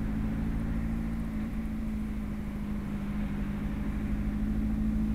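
Ferrari F430's 4.3-litre V8 running with a steady, unchanging engine note as the car drives, heard from inside the open-top cabin.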